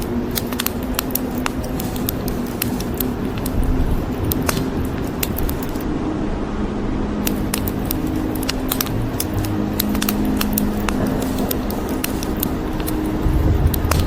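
Wood fire crackling in a fireplace, with frequent sharp pops and snaps over a steady hiss of rain. A low rumble of thunder swells near the end.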